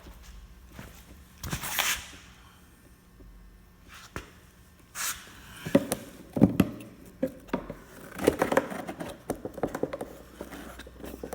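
Plastic knocks, clicks and scraping of an air filter being worked out of a Corvette C6 airbox by hand, with a brief swish about two seconds in and a cluster of louder knocks a little past the middle.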